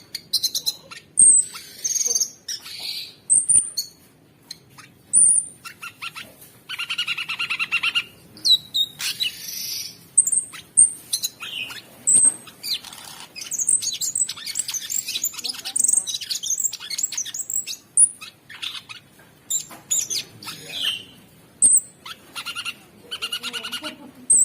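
Cucak sungkok songbird singing a busy, almost unbroken song of sharp high chirps, whistles and rough, raspy phrases, with only brief gaps.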